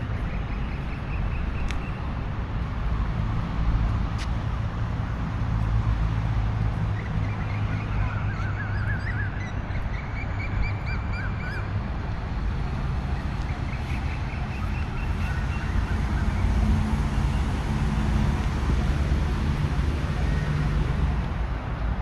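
Birds calling in runs of short, quickly repeated notes, several times over, above a steady low rumble.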